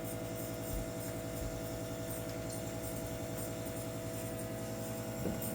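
Steady indoor electrical hum with a faint hiss, with one brief faint sound about five seconds in.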